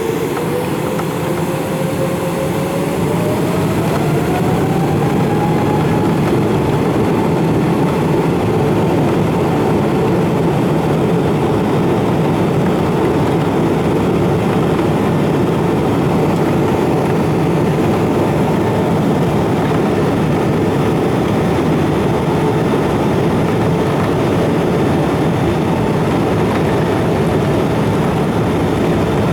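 Jet airliner engines at takeoff power, a loud steady roar with a whine that rises in pitch over the first few seconds and then holds steady.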